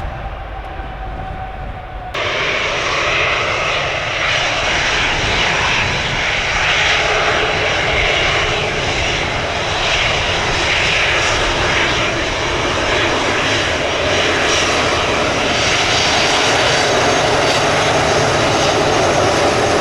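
Airliner jet engines running loud, a steady roar of noise that comes in abruptly about two seconds in and grows a little louder toward the end.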